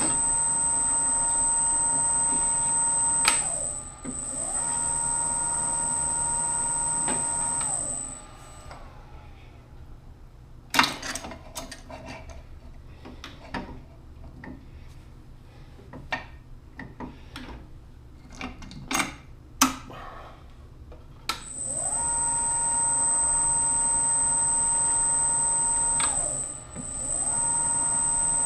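Electric power-tapping tool cutting 8-32 threads, its motor running with a steady high whine that briefly slows and picks up again. Near the middle the motor stops, leaving scattered sharp metallic clicks and knocks as parts are handled. The motor whine then resumes for the last few seconds, again slowing briefly and picking back up.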